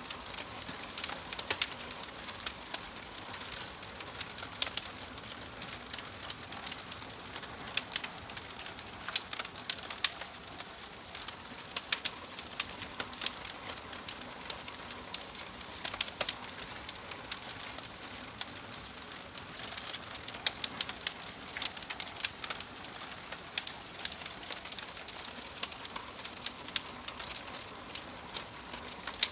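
Wood fire crackling, with frequent sharp pops and snaps scattered irregularly over a steady soft hiss.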